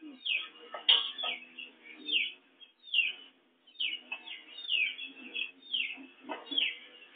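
A bird chirping over and over: short high calls, each falling in pitch, about one or two a second.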